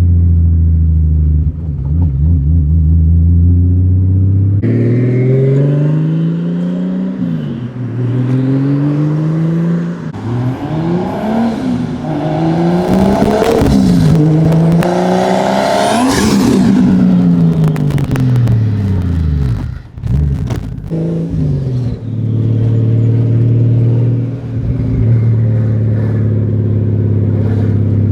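BMW car engine and exhaust during hard acceleration through the gears: the pitch climbs with the revs and drops at each gear change, with the highest rev about halfway through. It then settles into a steady drone near the end.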